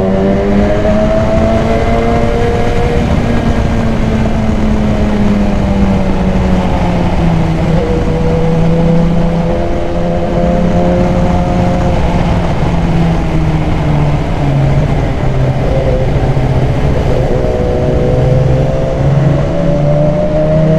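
BMW S1000XR motorcycle's inline-four engine, fitted with a K&N high-flow air filter, running under way. Its pitch rises and falls several times as the throttle is opened and eased, over steady wind rush.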